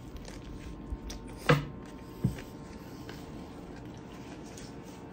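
Close mouth sounds of a man chewing a large bite of burger. The chewing is wet and soft, with short louder mouth noises about a second and a half and two seconds in.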